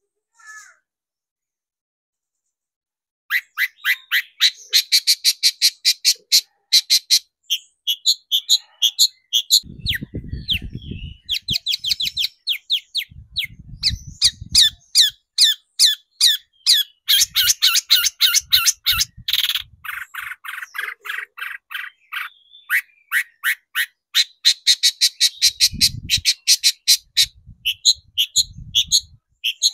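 Long-tailed shrike (cendet) singing: after about three seconds of silence, fast runs of harsh, evenly repeated chattering notes, with a few brief low rumbles in the middle and near the end.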